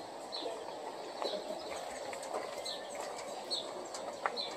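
A bird chirping, a short high note repeated about once a second, over a steady outdoor hiss, with a couple of sharp clicks, the loudest near the end.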